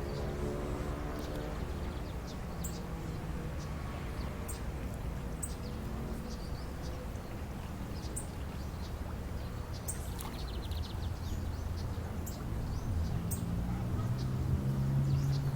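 Scattered short, high bird chirps over a steady low rumble. A vehicle engine grows louder in the last couple of seconds.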